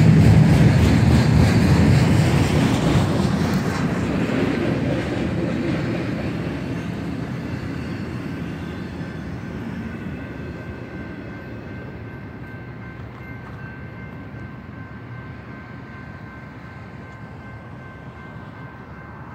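Double-stack intermodal freight cars rolling past on the rails, a loud rumble that fades steadily as the end of the train passes and moves away. As the rumble dies down, a steady high ringing, typical of the grade-crossing bell, comes through from about eight seconds in.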